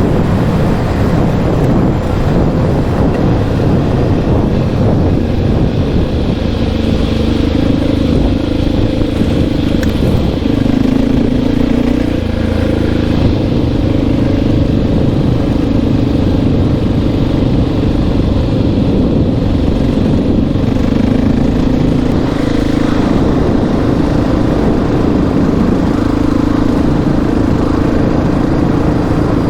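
Honda XR650R's big single-cylinder four-stroke engine running steadily under way, with brief changes in its note about ten seconds in and again a little past twenty, as the throttle eases and opens.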